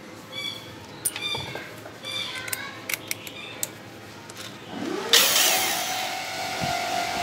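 Rockwell 18V cordless screwdriver: a few clicks, then about five seconds in its motor spins up, rising in pitch, and runs steadily with a loud noisy whir as it drives a screw.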